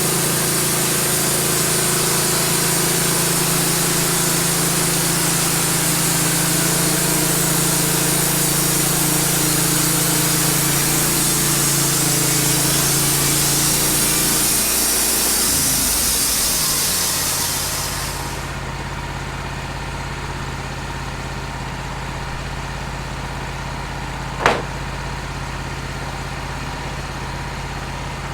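Wood-Mizer band sawmill cutting cedar: the mill's engine runs steadily under the hiss of the band blade in the wood. About two-thirds of the way through, the engine note shifts and the cutting hiss stops, leaving the engine running on its own, with one sharp click near the end.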